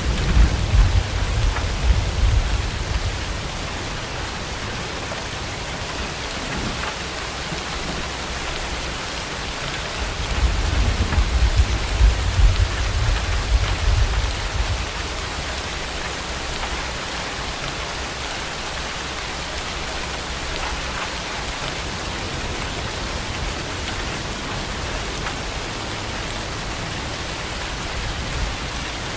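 Heavy rain falling steadily, with thunder rumbling twice: in the first few seconds, and again for several seconds starting about ten seconds in.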